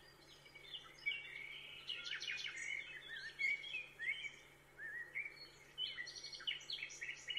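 Songbirds chirping and singing, a busy series of short, quick rising and falling calls, faint, over a low steady hum.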